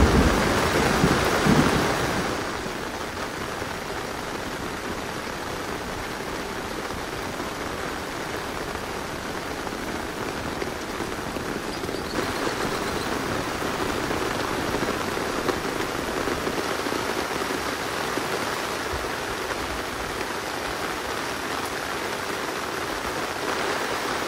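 Steady rain falling, an even hiss of many drops. In the first two seconds wind buffets the microphone with a low rumble.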